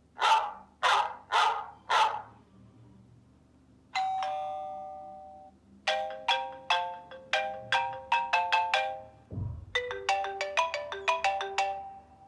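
A series of iPhone iOS 7 alert tones played one after another. First come four quick whooshes, then a single ringing chime, then two runs of short, bright chiming notes, with a brief low thump between the runs.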